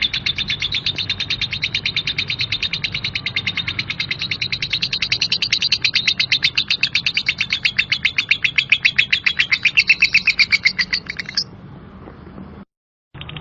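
Lovebird ngekek: a long, unbroken run of rough, rapid repeated chirps, about eight a second. It stops abruptly about a second and a half before the end, with a brief dropout just after.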